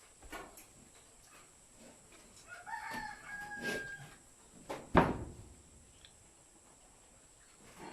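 A rooster crows once, a held call of about a second and a half, amid scattered small clicks and knocks. A sharp knock about five seconds in is the loudest sound.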